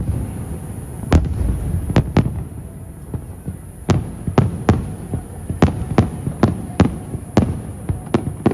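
Aerial fireworks shells bursting in an irregular volley, a dozen or so sharp bangs about every half second, each trailed by a low rumbling echo.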